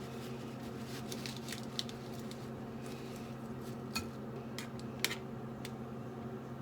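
A few light, sharp clicks and taps of household handling, scattered over a steady low hum.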